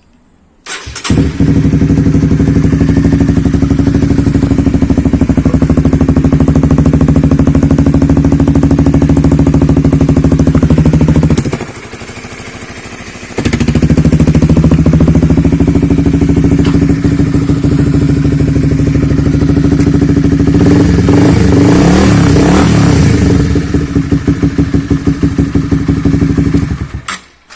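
Honda CB150R StreetFire's single-cylinder engine running through a newly fitted RMF aftermarket exhaust. It starts about a second in and idles steadily, drops away for about two seconds near the middle, then runs again and is revved several times, the pitch rising and falling, before cutting off near the end.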